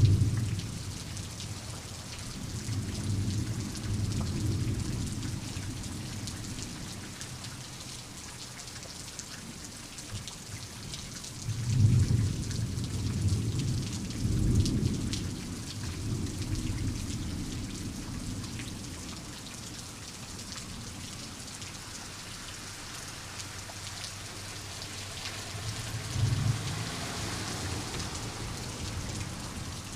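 Steady rain with rolling thunder. A thunderclap at the very start fades into a rumble, and more low rumbles follow a few seconds in. The loudest peals come about halfway through, and a fainter rumble comes near the end.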